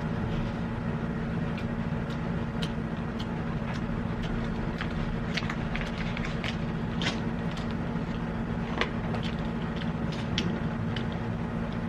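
Steady low hum with many light, scattered clicks and taps on top.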